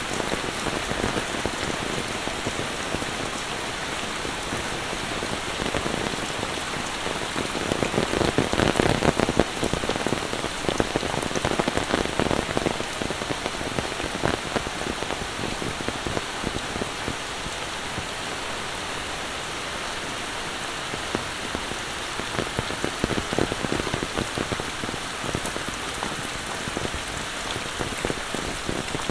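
Heavy monsoon rain falling, a dense steady patter of drops, swelling louder for a few seconds about a third of the way in.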